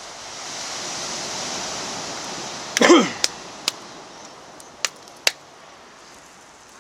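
Sea waves washing up the beach, the rush swelling over the first couple of seconds, then a loud sharp crack with a falling tone about three seconds in and a few sharp clicks after it.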